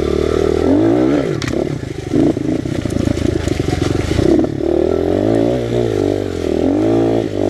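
Honda XR100 pit bike's single-cylinder four-stroke engine, fitted with a BBR 120 big-bore kit, revving up and down repeatedly under load while climbing trail hills.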